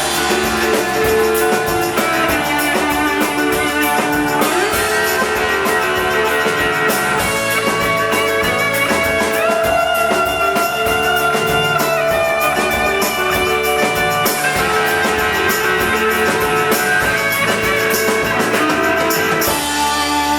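Live rock band playing an instrumental passage: electric guitars holding and changing notes over a steady drum kit beat, with no singing.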